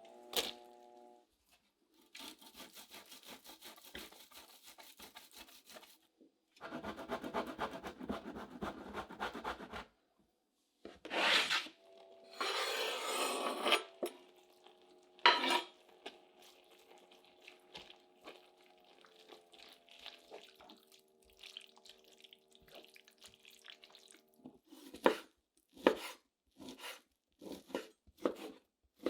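Kitchen utensil sounds: two long spells of quick, even scraping strokes, then louder scrapes, and near the end a run of sharp clinks and taps of utensils against dishes.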